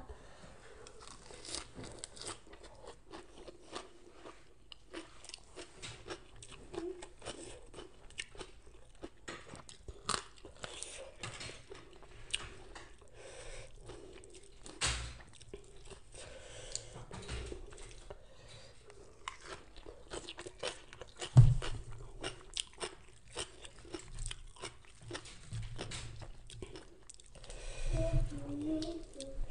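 Close-up chewing of crunchy raw shredded kohlrabi salad, many irregular crisp crunches. One low thump about two-thirds of the way through.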